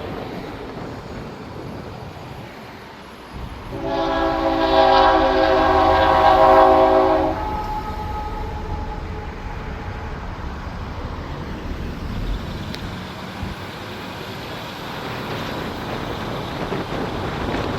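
Locomotive air horn sounding one long blast of about three and a half seconds, a chord of several notes, starting about four seconds in, over wind and the low rumble of an approaching train.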